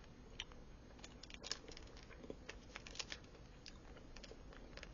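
Faint, scattered wet mouth clicks of someone chewing a soft, chewy watermelon gummy candy.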